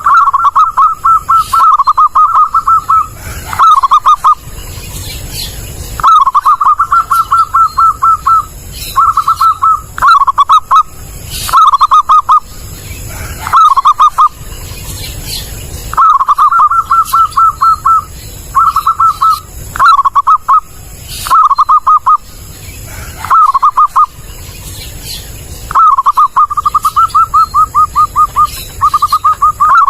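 Zebra dove (perkutut) cooing loudly: rapid series of short coo notes in phrases of about one to three seconds, repeated with short pauses between them.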